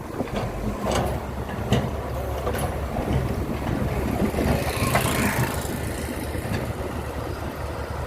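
A heavy engine running steadily with a low rumble, with a few sharp knocks in the first few seconds and a brief hiss about five seconds in.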